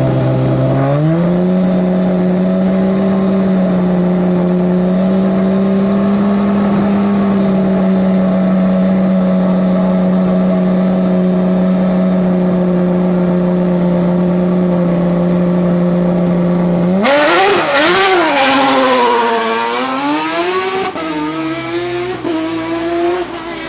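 Race car engine held at steady raised revs, stepping up in pitch about a second in. About 17 s in it launches loudly and accelerates away, its pitch rising and dropping through several gear changes as it fades.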